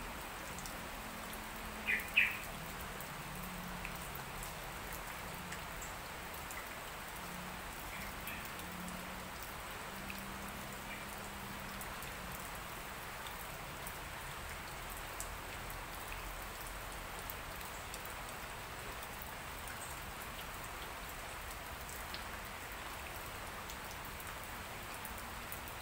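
Light rain falling steadily, with scattered single drops ticking. Two short, sharp high sounds stand out about two seconds in.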